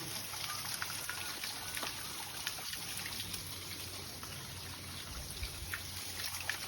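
Small waterfall: a steady rush of falling water with many small splashes and drips.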